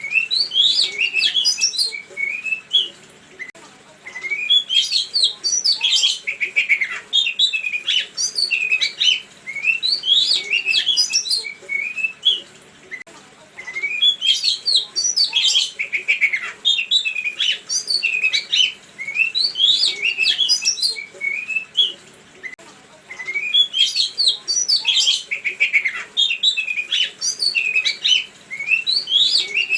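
Songbird song in repeated bouts of quick, varied chirps and whistled notes, each bout a few seconds long with short pauses between. It is a pancingan (bait) recording meant to set caged songbirds singing in reply.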